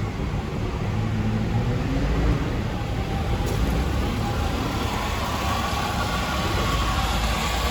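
Cadillac Escalade EXT's 6.0-litre LQ9 V8 engine running steadily, with a faint higher tone that rises slightly about two seconds in.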